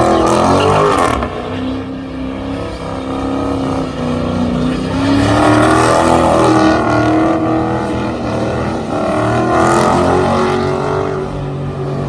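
Car engine held at high revs, its pitch climbing slowly through the middle and easing off a little near the end.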